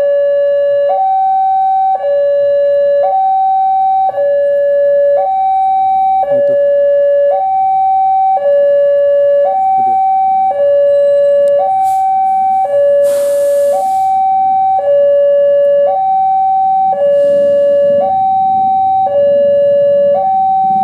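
Railway level-crossing warning alarm sounding with the barriers down: a loud electronic two-tone hi-lo signal, switching between a higher and a lower pitch about once a second. A brief hiss cuts in about thirteen seconds in, and a low rumble builds near the end.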